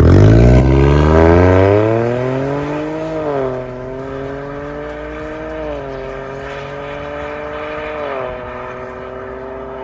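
Ford Focus ST-Line Mk4's turbocharged 1.5-litre three-cylinder engine, heard through an MS-R valved cat-back exhaust, accelerating hard with its pitch rising for about three seconds. Its pitch then drops at an upshift and holds nearly level, dipping slightly again about six and eight seconds in.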